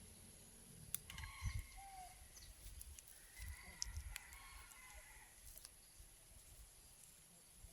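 Chickens clucking faintly, with a few light clicks.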